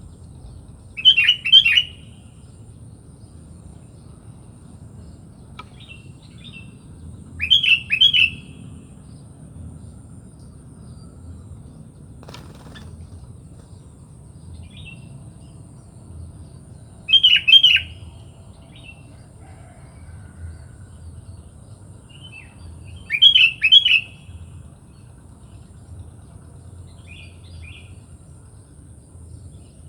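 Sooty-headed bulbul (kutilang) singing: four short, loud, bubbly phrases spaced several seconds apart, with fainter calls in between. A steady low rumble and a thin high tone run underneath.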